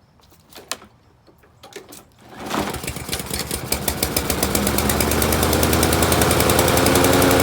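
A few light clicks, then about two and a half seconds in a small walk-behind lawn mower engine catches on a warm restart and runs with an even, rapid firing, getting louder as it settles. The crankcase is overfilled with oil.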